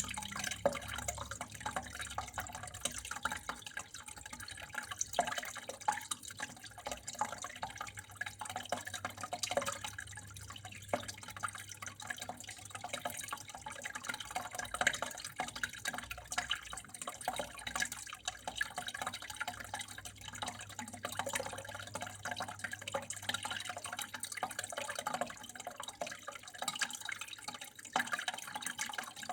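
Water flowing steadily at a small trickle, with a constant run of small drops and splashes.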